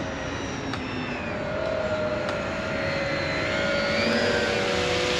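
Twin electric motors and propellers of an E-flite Beechcraft D18 RC airplane whining in flight at about half throttle, the tones drifting slightly in pitch and growing a little louder toward the middle.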